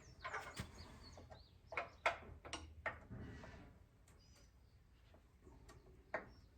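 Scattered clicks and knocks of hand tools and hardware, most of them in the first three seconds and one more near the end, as a bolt is worked into a tiller's engine mount.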